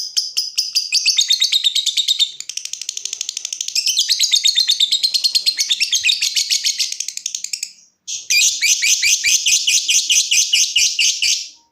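Lovebird giving its long 'ngekek' cackle: a fast, unbroken run of sharp, high, chattering notes, about ten a second. It breaks off briefly about eight seconds in, then a second run starts up and stops abruptly near the end.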